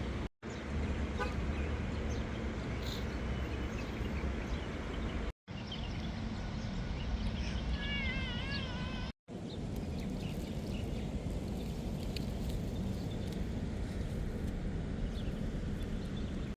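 Steady outdoor street noise with a low traffic rumble, cut off briefly by silent gaps three times. About eight seconds in, a short warbling animal call.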